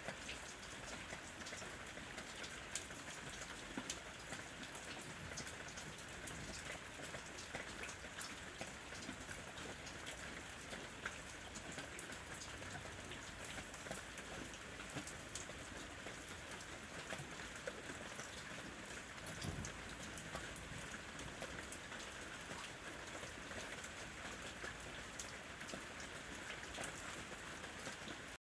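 Steady rain falling on a house roof: a continuous even hiss with many small, scattered drop ticks.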